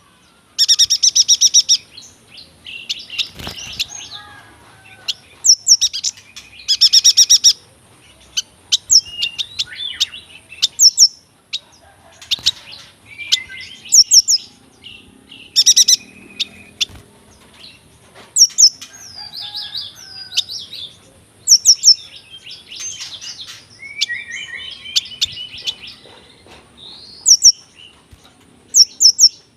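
Yuhina singing a varied song of sharp high chirps, fast rattling trills and twittering phrases, in bursts every second or two.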